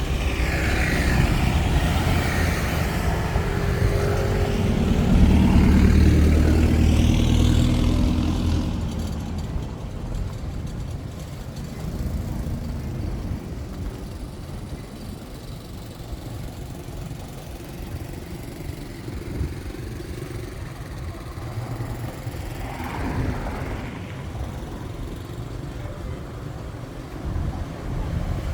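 Street traffic. A motor vehicle passes close by, its engine getting louder over the first several seconds and then fading away. After that comes a lower, steady traffic noise, with another vehicle passing near the end.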